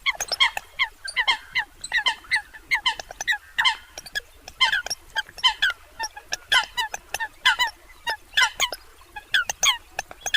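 Eurasian coot calling: a steady series of short, sharp calls that drop a little in pitch, two or three a second, with sharp clicks in between.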